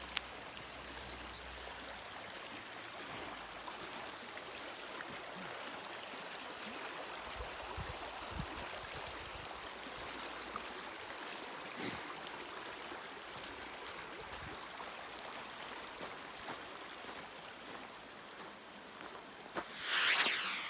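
Steady rushing of a stream, with a few faint clicks and a brief louder whoosh shortly before the end.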